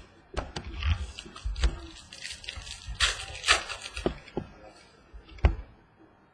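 Trading cards being handled and sorted by hand: scattered taps and clicks, with a brief rustle about three seconds in.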